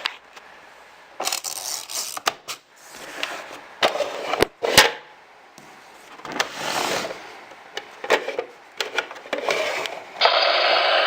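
Plastic toy playset being handled: sharp clicks and scrapes of moving plastic parts, with short swells of hiss. About a second before the end a steady, louder hiss begins.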